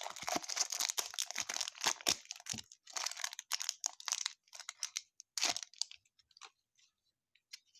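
Paper trading-card pack wrapper being torn open and crinkled by hand, with dense crackling for about four seconds and one more burst later, then a few faint ticks.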